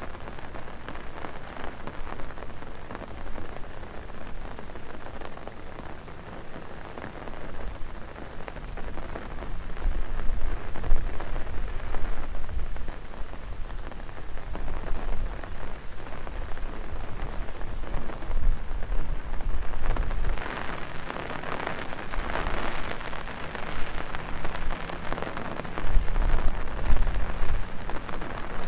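Heavy rain pattering steadily on an umbrella and the ground around it, with a few stretches of low rumble underneath.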